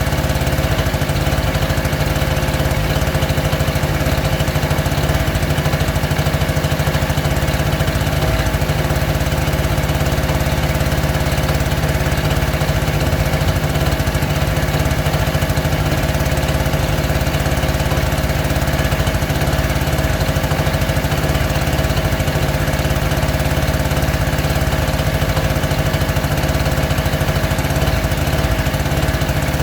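A small engine running steadily at a constant speed, with a steady hum throughout.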